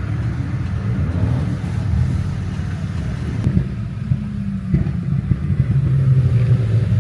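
Car engines and exhausts running and revving in street traffic, with a few sharp spikes in the second half.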